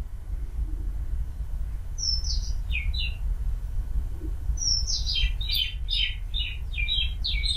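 A bird chirping. A few quick high falling notes come about two seconds in, then a longer run of falling chirps at about three a second from about five seconds in, over a steady low hum.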